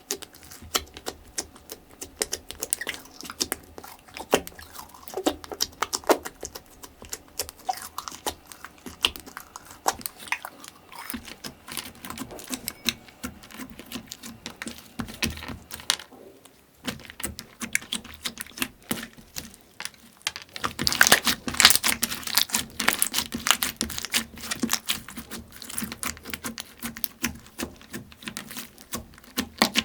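Slime being squeezed and poked up close, giving dense crackling and popping clicks. The clicks briefly grow louder and busier about two-thirds of the way through.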